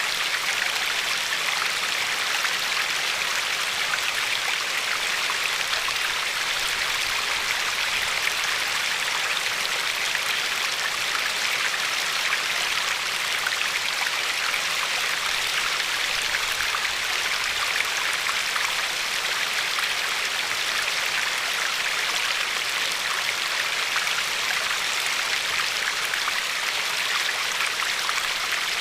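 River water flowing and lapping along a pebble shore: a steady rushing hiss dotted with many small splashes.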